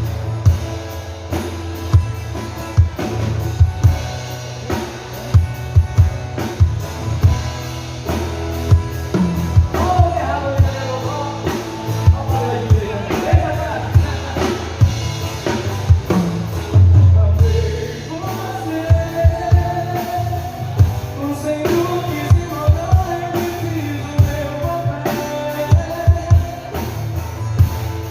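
Live sertanejo band music with a steady drum-kit beat; a singer's voice comes in about ten seconds in and carries the melody over the band.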